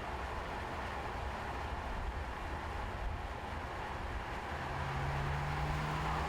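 Mercedes-AMG C43 with its 2.0-litre turbocharged four-cylinder driving on the road: steady tyre and road noise over a low rumble. About four and a half seconds in, an engine note comes up and rises slightly in pitch.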